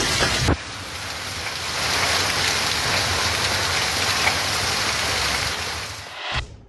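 Heavy storm rain pouring down steadily, a dense even hiss; the sound changes abruptly about half a second in as one storm clip gives way to another, and fades out near the end.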